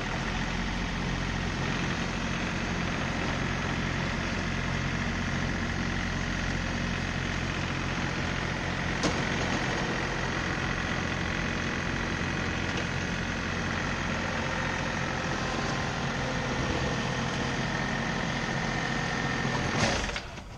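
John Deere 3038E compact tractor's diesel engine running steadily under a steady high whine, with one sharp click about nine seconds in. The sound cuts off suddenly near the end.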